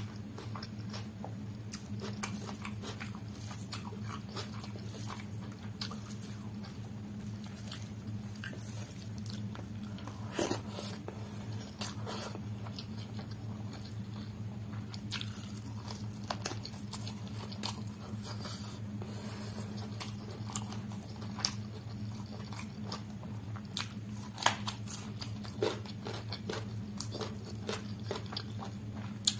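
Close-up chewing and wet mouth sounds of eating chicken curry and rice by hand, with scattered clicks and smacks. A steady low hum runs underneath.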